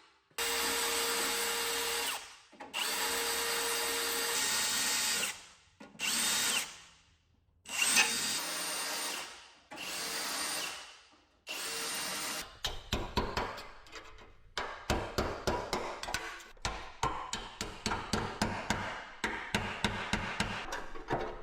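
A handheld power tool run in six short bursts of one to two and a half seconds each, starting and stopping abruptly. For the last part it gives way to a fast, irregular clicking.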